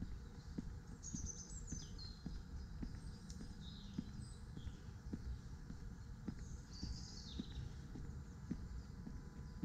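Birds chirping in short runs of falling high notes, once about a second in and again past the middle. Under them run steady walking footsteps, about two a second, over a low outdoor rumble.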